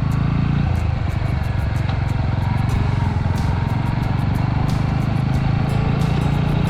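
Suzuki Grasstracker's single-cylinder engine running steadily while the motorcycle is ridden along the road.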